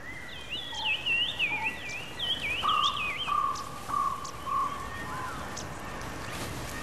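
Wild birds calling over a thin, steady high tone: a quick warbling song rising and falling in pitch, then a run of about five short, level whistled notes.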